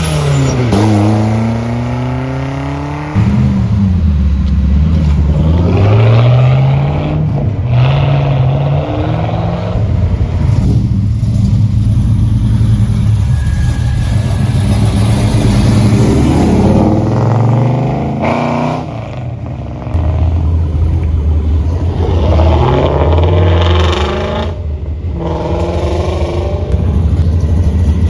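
Performance car engines being revved again and again, their pitch climbing and falling back with each rev, over a steady idle. The sound changes abruptly a few times as it switches from one car to another.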